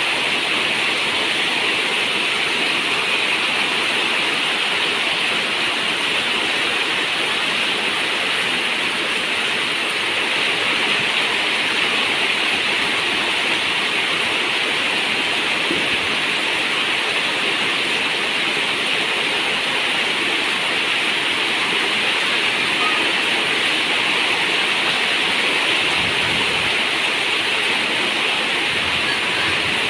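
Rain falling on a zinc roof: a steady, even hiss with no single drips standing out.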